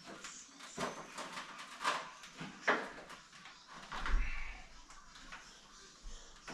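Several sharp knocks and clunks as shower-unit parts are handled and fitted, with a heavier thump about four seconds in.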